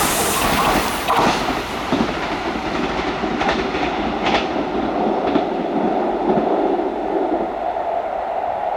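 Kintetsu train running past and pulling away. The broad rush of wheel and running noise fades as its hiss dies away, with a few sharp wheel clacks over rail joints between about three and a half and five and a half seconds in, and a steady hum underneath.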